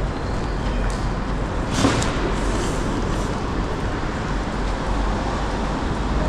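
Steady ambient rumble and noise, with one brief sharp sound about two seconds in.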